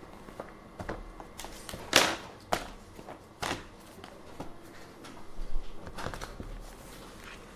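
Office ambience: irregular clicks, taps and knocks of desk work over a faint steady room background, the loudest knock about two seconds in.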